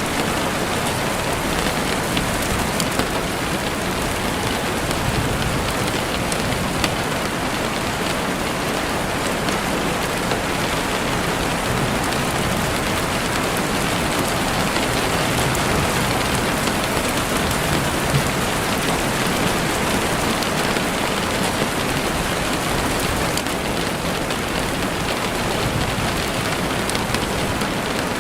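Heavy rain falling steadily on a window, a dense even hiss with scattered small drop ticks.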